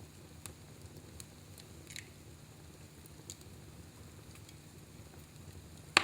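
Fireplace fire burning with a low steady rumble and scattered faint crackles, then one sharp, loud pop right at the end.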